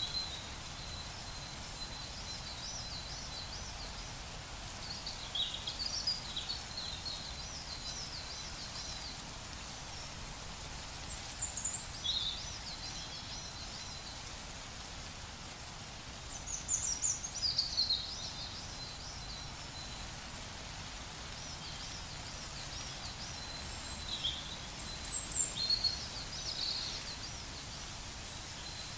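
Songbirds singing short, high, warbling phrases every few seconds over a steady low rumble of outdoor background noise. The loudest phrase comes near the end.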